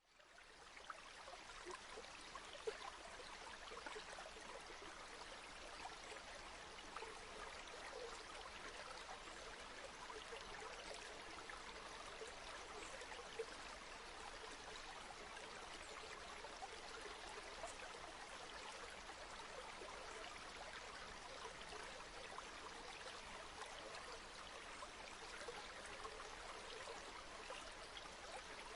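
River water flowing steadily over rocks, a continuous rushing and burbling with small splashes, fading in over the first second.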